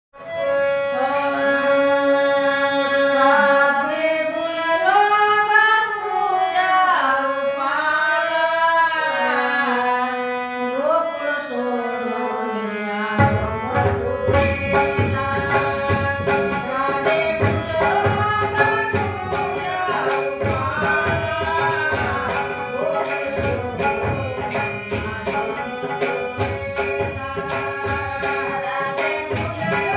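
Marathi gavlan bhajan: a woman sings a slow, gliding opening line over harmonium with no drums. About 13 seconds in, tabla and a quick high-pitched percussion beat come in under a steady held harmonium note.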